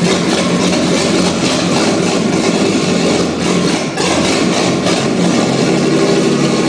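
Chevrolet Opala 1969 engine running unevenly just after catching from cranking, with two brief dips in speed, a little past three seconds and at about four seconds.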